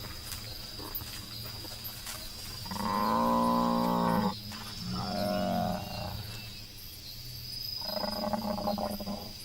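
An African buffalo bellowing three times in long, drawn-out calls, the distress calls of a buffalo attacked by lions. Steady insect chirring runs underneath.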